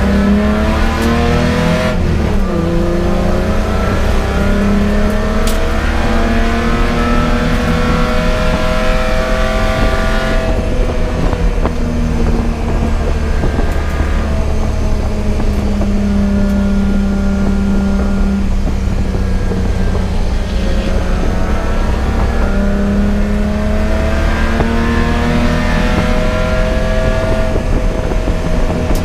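Race car engine pulling hard and rising in pitch through the gears, dropping off about a third of the way in as it slows for a corner, then pulling up again twice, over a constant low rumble.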